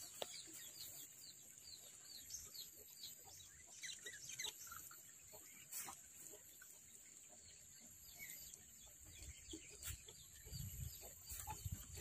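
Small birds chirping faintly, many short falling chirps a few times a second, over a steady high hiss. A sharp click or two comes about halfway through as a bird cage is hung on a branch.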